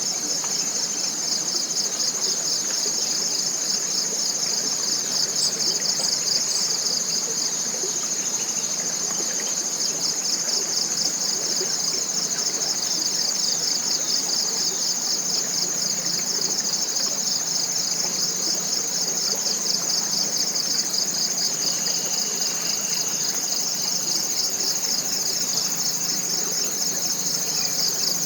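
Steady, high-pitched chorus of forest insects, a continuous rapidly pulsing buzz, over a faint wash of lower background noise.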